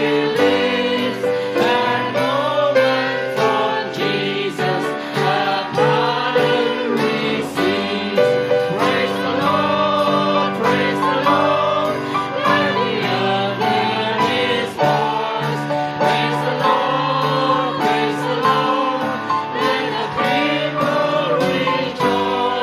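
Congregation singing a hymn together, accompanied by piano and drums with a steady beat.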